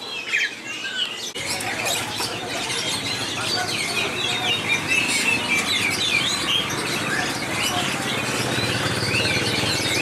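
Many caged songbirds chirping and whistling at once, a dense overlapping chorus of quick rising and falling calls, with a steady background hubbub that grows louder about a second and a half in.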